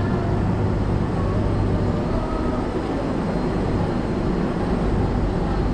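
Steady running rumble and noise of the SPT1 passenger train of Vietnam Railway in motion, with no breaks.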